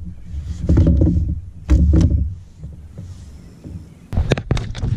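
Rumbling handling noise on a kayak with a big flathead just landed, then a quick run of sharp knocks and clicks about four seconds in.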